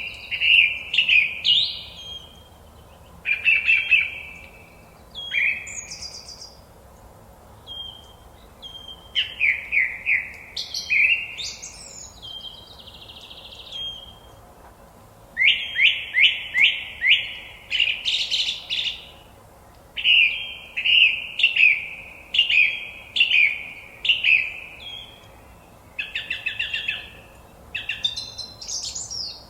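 Forest songbird song: short, varied phrases, many of them quick series of repeated chirping notes, with brief pauses between phrases, over a faint steady background hiss.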